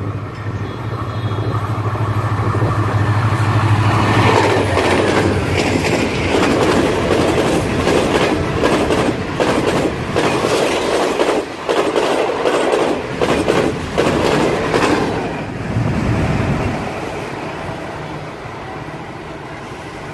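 Pakistan Railways Green Line express train passing at speed. A steady low drone from the approaching diesel locomotive's engine gives way, about four seconds in, to the loud rushing clatter of the coaches' wheels over the rail joints, which eases off over the last few seconds.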